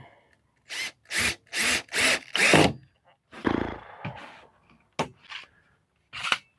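A workshop tool working in five short rasping bursts about half a second apart, then a dull thump and a few sharp clicks.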